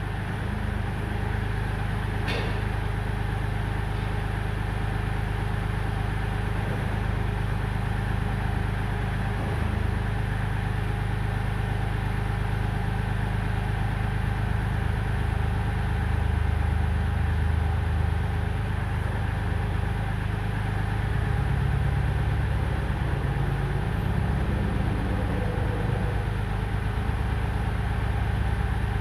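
Kioti compact tractor's diesel engine running steadily at a low, even drone, its note shifting slightly about halfway through and again later on.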